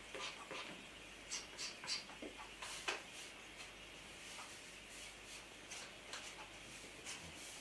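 Oil-based marker squeaking and rubbing against the rubber of an inflated balloon in short, irregular drawing strokes, with a few light clicks. The marker is drying out and barely writes.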